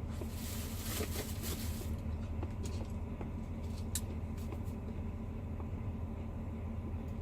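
Steady low hum of a semi truck's diesel engine idling, heard from inside the cab. A brief rustling noise comes about half a second in and lasts over a second, followed by a few light clicks.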